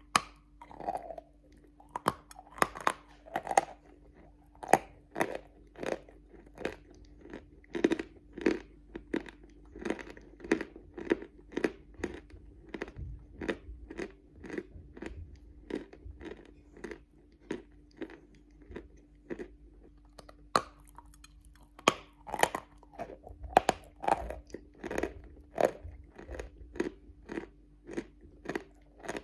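Hard grey-blue natural clay-chalk being bitten and chewed close to the microphone: a steady run of dull crunches, about one to two a second. The crunches are sharper near the start and again about three-quarters of the way through, where fresh bites are taken.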